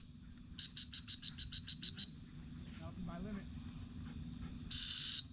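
Dog-training whistle giving a retriever commands. A long blast opens, about half a second later comes a quick series of about nine short toots, and a second long blast sounds near the end. These are the usual signals to come in and to sit. A faint steady insect buzz runs underneath.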